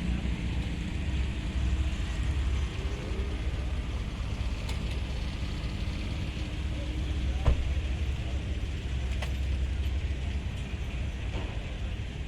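Low, steady rumble of a car engine running, under general outdoor noise, with a single sharp click about halfway through.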